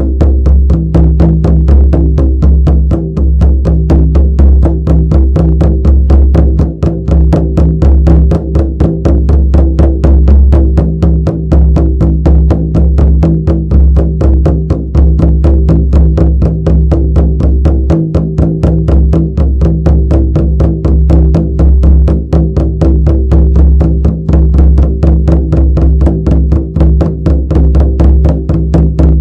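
Shamanic frame drum beaten in a fast, steady, unbroken rhythm, the strokes running together over a continuous low booming resonance.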